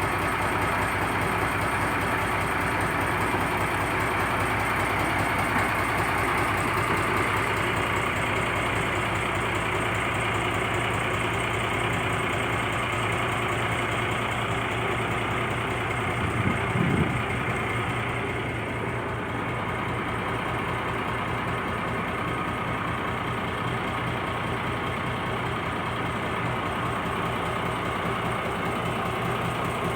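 Purse-seine fishing boat's engine running steadily, with a brief low thump a little past halfway.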